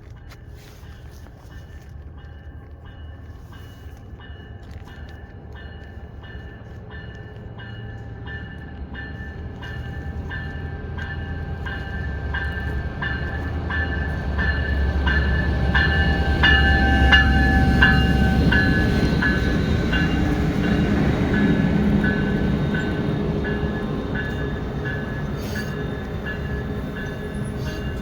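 A freight train passing a grade crossing while the crossing bell rings steadily, about two strikes a second. The train's rumble builds to its loudest about two-thirds of the way through and then slowly eases.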